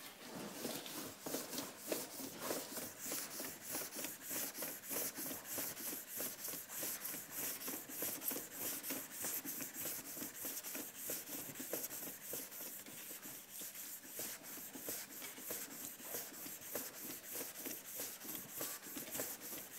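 Hand wet sanding with P800 sandpaper moved back and forth over cured HB Body 290 polyester body putty: a soft, even rasping in steady strokes, about three a second.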